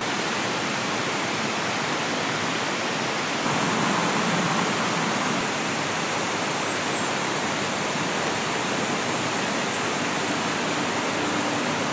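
Small creek flowing, a steady rush of water.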